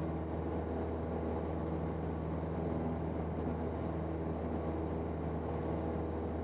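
A 1977 Cessna 172N's four-cylinder Lycoming engine and propeller droning steadily at constant power, heard from inside the cabin.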